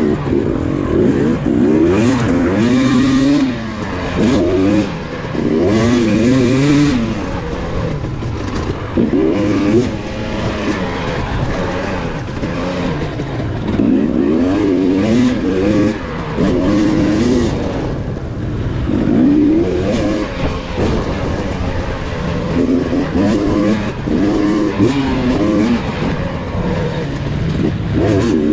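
KTM 250 XC two-stroke dirt bike engine being ridden hard, its revs rising and falling over and over as the throttle opens and closes.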